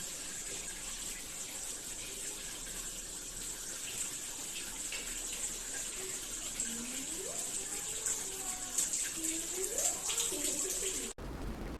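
Water spraying steadily from the shower head of an electric instant water heater, an even hiss. A few faint rising tones come in over the second half, and the sound changes abruptly near the end.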